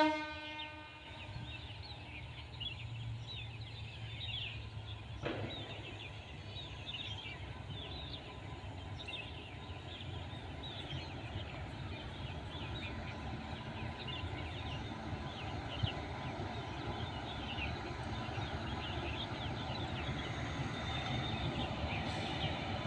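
Many short bird chirps over a low, steady rumble that slowly grows louder, with the train coming closer.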